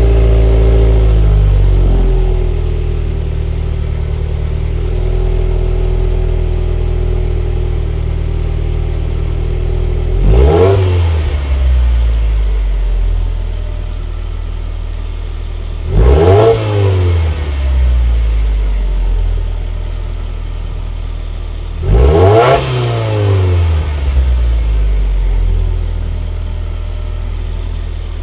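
Subaru WRX's turbocharged flat-four on its stock exhaust, at a raised idle just after starting that settles within about two seconds. It is then revved three times, about six seconds apart, each rev rising and falling back to idle within about a second.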